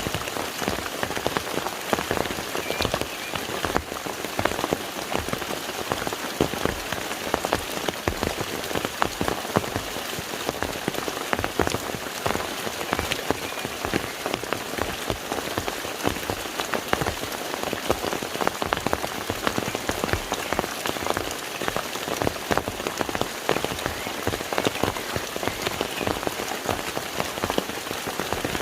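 Steady rain falling on a lake, a dense patter of countless individual drops hitting the water.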